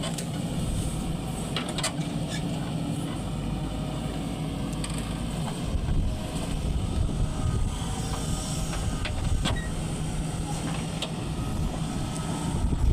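JCB 3DX backhoe loader's diesel engine running while it digs and loads mud, working harder about halfway through and again near the end, with a few sharp knocks.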